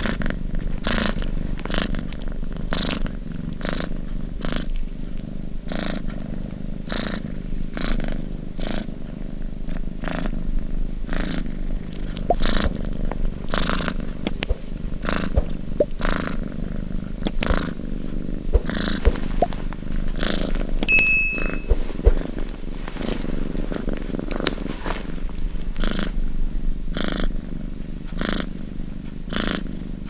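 Domestic cat purring steadily close to the microphone: a low rumble that swells and fades with each breath in an even rhythm.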